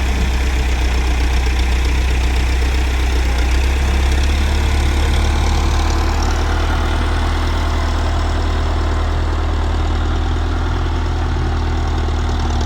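Tractor engine running steadily with a deep, even drone, its speed unchanging throughout.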